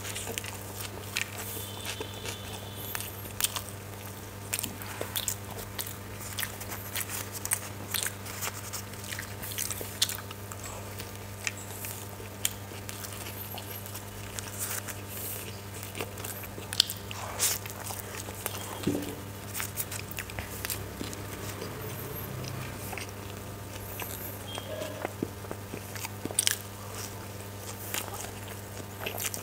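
Close-miked eating of a spicy egg roll: biting and chewing with wet mouth smacks and many short, crisp clicks, over a steady low hum.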